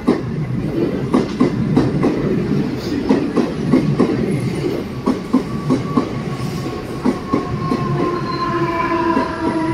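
Mumbai suburban local train (electric multiple unit) running along the platform, its wheels clacking over the rail joints. From about halfway through, a whine joins in and falls slightly in pitch.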